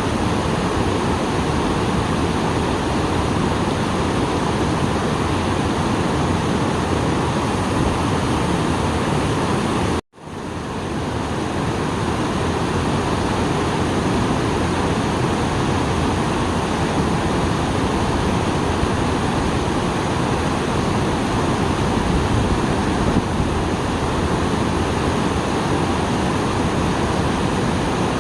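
Small waterfall rushing steadily, its flow swollen after rain. About ten seconds in, the sound cuts out completely for an instant and fades back up over a second or so.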